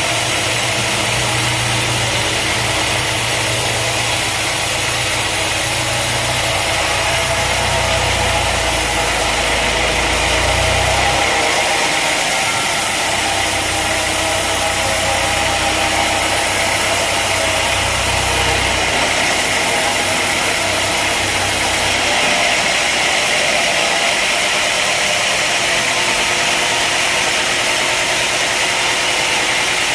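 Sawmill machinery running steadily, an engine-driven saw at work. A low rumble fades out and returns twice, and it drops away near the end as a higher hiss takes over.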